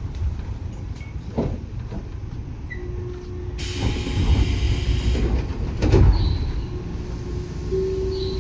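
Tobu 9000 series electric commuter train running: a steady low rumble of wheels on rail with a sharp knock over a rail joint twice, and a burst of air hiss lasting about a second and a half midway.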